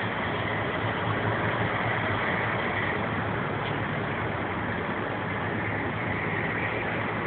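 Large vehicle engine idling steadily under a constant rushing noise.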